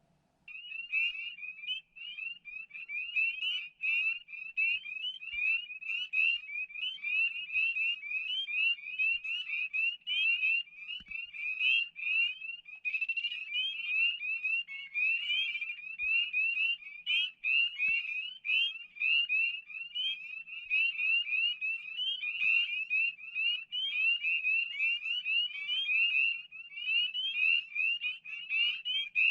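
Dense chorus of many spring peepers calling: short, high, rising peeps overlapping one another without pause. The chorus starts abruptly about half a second in.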